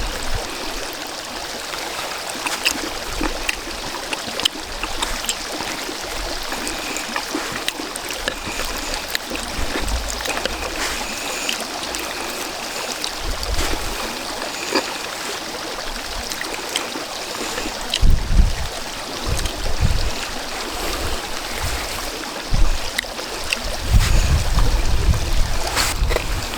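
Strong wind rushing steadily, with gusts hitting the microphone as low rumbles about two-thirds of the way through and again near the end. Faint small clicks scattered throughout.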